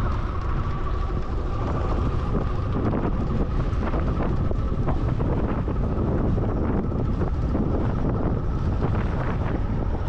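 Wind buffeting the microphone during a bike ride: a steady low rumble, with scattered light clicks through it.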